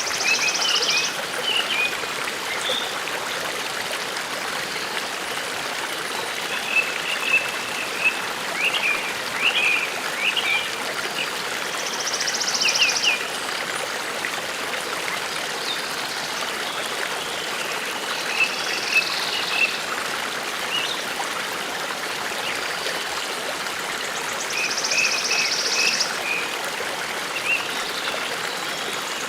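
A forest stream running steadily, with small birds chirping in short clusters and a buzzy high song phrase repeating about every six seconds.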